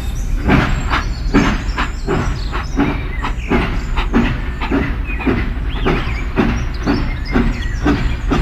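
Small DIY model tractor's electric motor running with a steady low hum and a regular clacking about twice a second.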